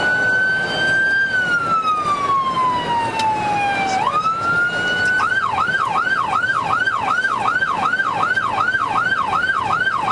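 Police car siren on a pursuit. It holds a long, slow wail that falls in pitch, sweeps back up, and about five seconds in switches to a fast yelp of about three rises and falls a second, over steady road noise.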